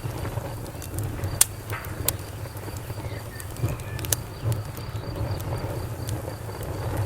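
Campfire crackling with a few sharp pops, the loudest about a second and a half in, over a steady pulsing cricket chirp and a low steady hum.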